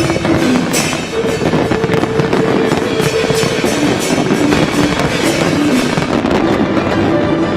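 Fireworks shells bursting and crackling, with several sharp bangs near the start, over loud festive show music carrying a melody line.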